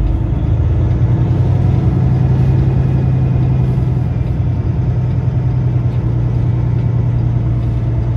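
Peterbilt semi truck's diesel engine running with a steady low drone.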